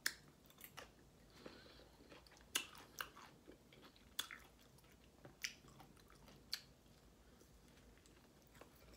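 A person chewing pickle slices close to the microphone, faint, with scattered sharp crunches and wet mouth clicks every second or so.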